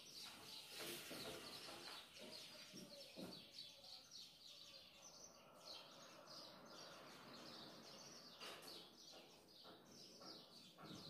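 Near silence: faint room tone with faint, scattered bird chirps in the background.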